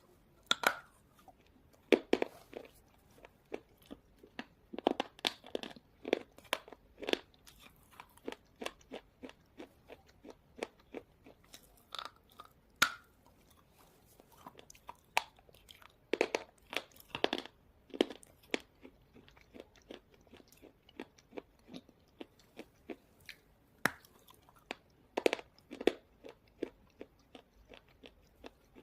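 Someone biting and chewing slate pencils close to the microphone. Sharp, brittle crunches come in irregular clusters, with short pauses between bites.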